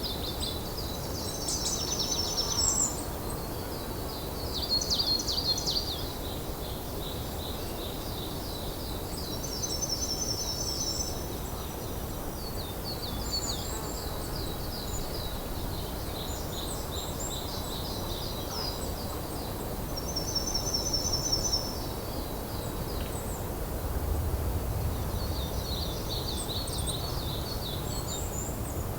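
Wild songbirds singing: short high trilled phrases and chirps that recur every few seconds, over a steady low background rumble.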